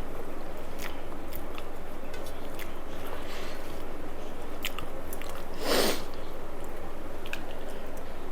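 A person chewing and biting a mouthful of rice and fried greens close to the microphone, with many small wet mouth clicks. One louder, brief burst of noise comes about six seconds in.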